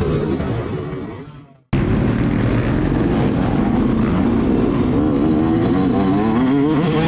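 Mixed engine and track sound fades to a moment of silence; then motocross bike engines cut in, revving with the pitch rising and falling.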